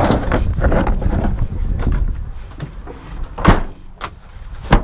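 Clattering of hardware while an engine is rigged to a crane for lifting out. Two sharp knocks follow, about three and a half seconds in and again near the end.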